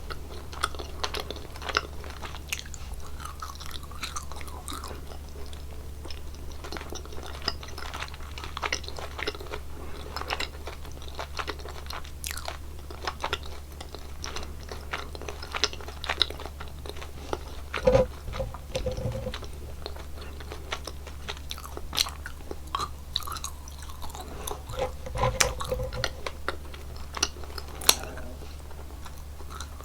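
Close-miked chewing of gummy jelly candies: many small wet, sticky clicks and squelches, with a few louder bites about two-thirds of the way through and near the end.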